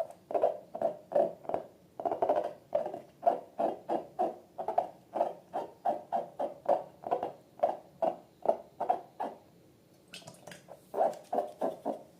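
Slime being squeezed and squished by hand in a run of short, wet pulses, about two to three a second, with a brief pause about nine and a half seconds in.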